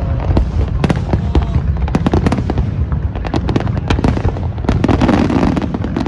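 Fireworks display: a rapid string of bursts and crackles over a constant low rumble, growing denser in the second half.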